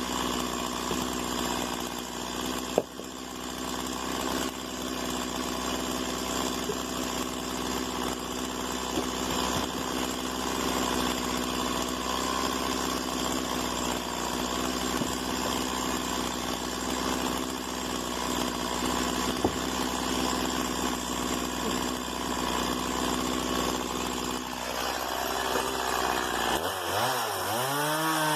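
Stihl MS 170 two-stroke chainsaw engine running at a steady speed, with a couple of sharp clicks. Near the end it is revved up and down several times in quick succession.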